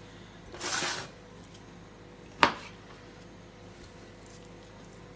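Handling sounds from cutting raw chicken breast into chunks: a brief rustling hiss just under a second in, then one sharp knock about two and a half seconds in, the loudest sound.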